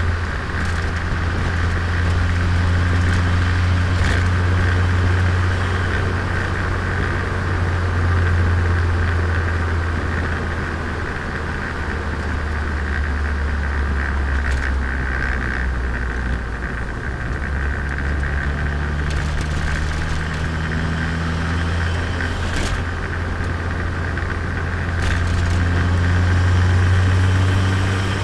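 Turbocharged Nissan Micra engine and exhaust running while driving, the low engine note rising and falling with throttle and road speed. A few brief clicks sound along the way.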